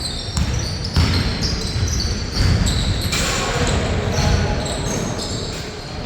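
Basketball bouncing on the court during play, with several short high-pitched squeaks, typical of players' shoes on the floor.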